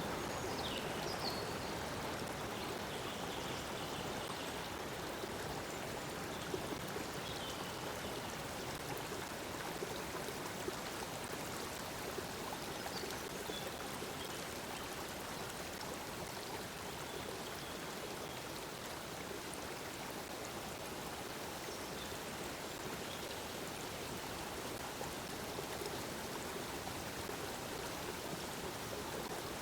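Water flowing steadily in a stream, with a few faint short bird chirps over it.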